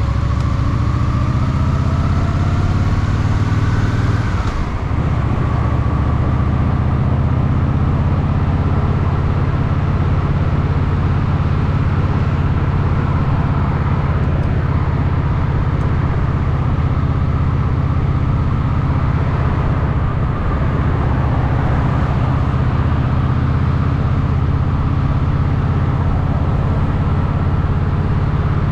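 Honda Shadow VT750's V-twin engine running as the motorcycle rides, rising in pitch for the first four seconds, dipping briefly near five seconds, then holding a steady pitch.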